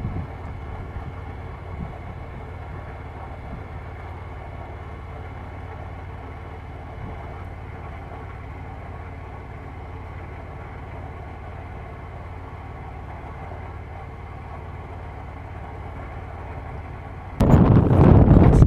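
Hired motorboat's motor running steadily underway, a low drone. Just over a second before the end, a loud rush of wind on the microphone starts suddenly.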